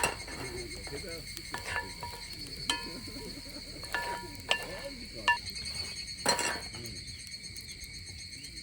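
Insects calling steadily in a summer chorus, with several sharp clinks and knocks, some of them briefly ringing like metal.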